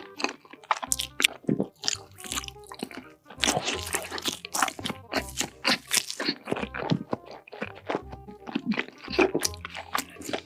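Crisp crunching bites and chewing of food in quick, irregular succession, over background music with a steady bass line.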